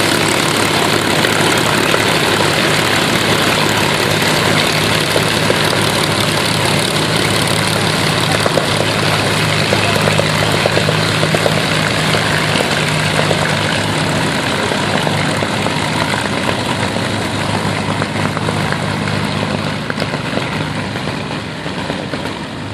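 An Avro Lancaster's four Rolls-Royce Merlin V12 engines running at low power as it taxis: a dense, steady propeller drone that grows gradually quieter toward the end.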